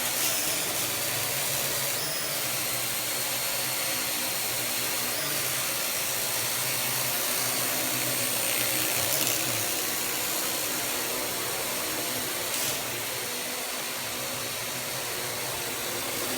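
Parrot AR.Drone quadcopter in flight, its four rotors giving a steady whirring hum with a high whine.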